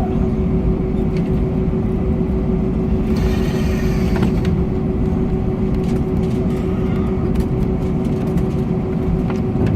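Steady engine and airframe rumble heard inside the cabin of an Airbus A321 airliner, with a constant mid-pitched engine hum. A brief hiss comes in about three seconds in.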